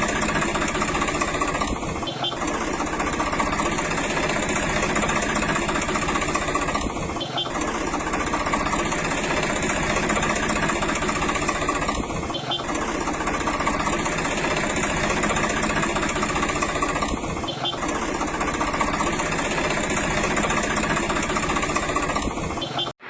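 A steady engine running at idle with a knocking beat. There is a brief dip about every five seconds, and the sound cuts off abruptly near the end.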